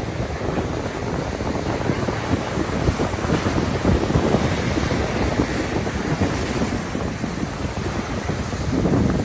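Wind buffeting the microphone over the steady wash of ocean surf, in uneven gusts.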